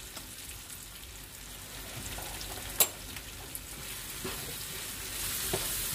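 Chicken sizzling in hot oil in a frying pan while a wooden spatula stirs in chilli powder, the sizzle growing louder near the end. One sharp knock about three seconds in, with a few fainter clicks.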